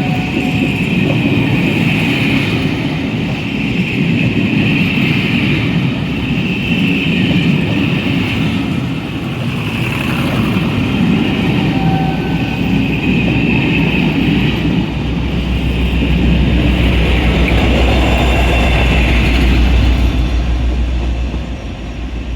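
Train hauled by a Class 47 diesel locomotive departing and rolling past, a steady heavy rumble with a higher hiss that swells and fades every couple of seconds. A deep low hum builds about two-thirds of the way in, then eases off near the end.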